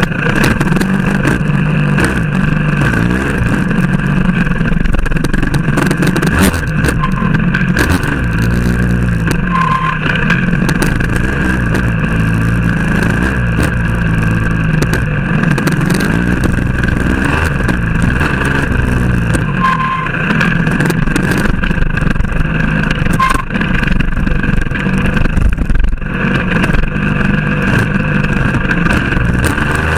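Motorcycle engine running under way, its pitch rising and falling repeatedly as it revs up and eases off.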